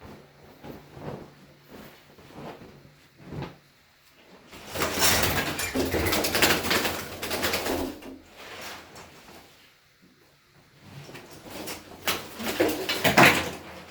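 A trapped bird flapping its wings in a small room, in two noisy bouts of fluttering, one about five seconds in lasting a few seconds and a shorter one near the end, with a few soft knocks before.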